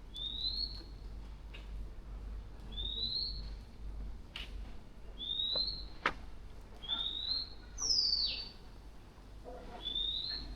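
A bird calling with short, rising whistled notes repeated about every two seconds, with one higher, falling note about eight seconds in.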